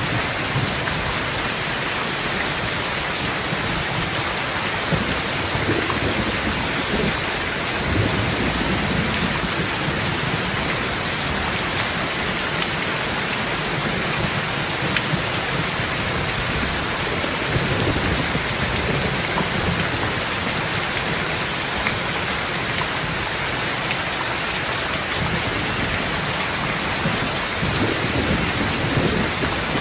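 Steady rain falling, with low rumbles of thunder swelling up a few times.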